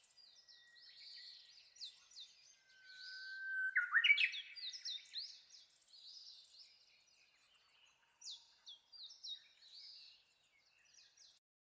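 Wild birdsong: many short high chirps and warbles, with one louder song about three seconds in, a long held whistle that breaks into a quick rising flourish. That song is typical of a Japanese bush warbler's "hoo-hokekyo".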